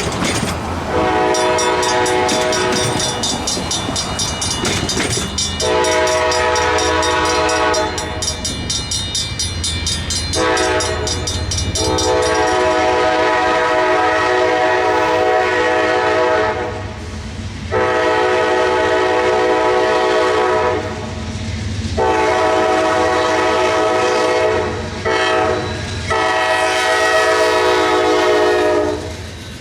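Amtrak passenger locomotive's air horn sounding a series of long blasts, with one short blast near the end, as it approaches the crossings. Through the first half, an electronic-mechanical Safetran Hybrid crossing bell rings in fast, even strokes behind the horn.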